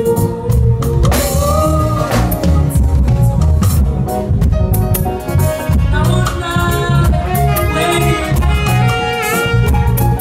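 Band playing gospel music: a drum kit keeping a steady beat under a heavy bass line, with a sung melody over the top.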